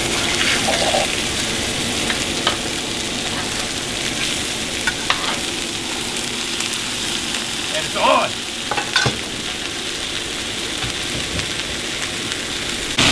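Ground venison burger patties sizzling in hot oil in a cast-iron skillet, a steady frying hiss. A few short clicks and scrapes of the metal spatula against the pan come as the patties are laid in.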